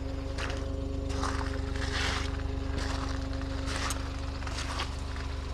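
1990 Suzuki 4x4 mini truck's small engine idling with a steady, even drone, with several short scuffing noises over it.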